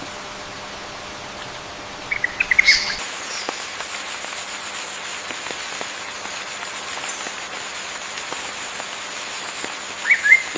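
Rainforest ambience: a steady hiss of water or rain, with short bird chirps a couple of seconds in and again near the end. From about three seconds in, a thin, steady, high-pitched drone runs under it.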